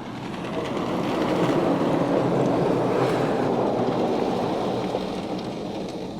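Ryko Radius automatic car wash spraying dry foam onto the car, heard from inside the cabin as a rushing spray that swells over the first couple of seconds and fades away near the end.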